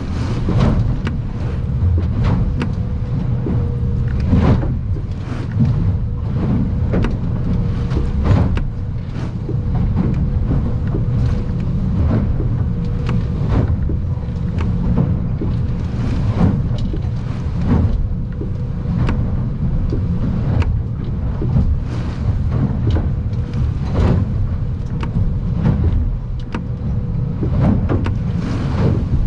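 Inside the cabin of an aluminium boat under way in rough water: a steady low rumble of the outboard and hull, broken by frequent irregular knocks and thumps as the hull pounds through the chop.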